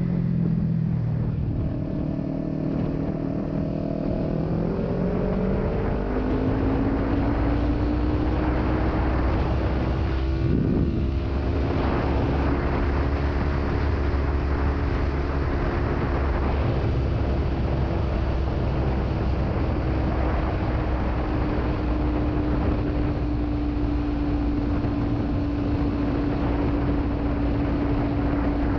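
Kawasaki Ninja 300's parallel-twin engine through a Delkevic aftermarket exhaust, riding on the highway. The engine note drops at first, then climbs as the bike accelerates about five seconds in, and settles into a steady cruise that eases slowly down, over a low wind rumble. A short sweep in pitch comes about a third of the way through.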